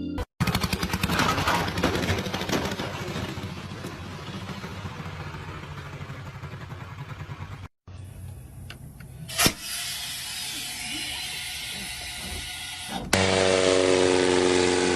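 Vehicle engine sounds in short cut-together clips, the first a fast run of engine pulses that is loudest at the start and fades, the second a steady low hum with one sharp knock partway through. Music with sustained tones comes in near the end.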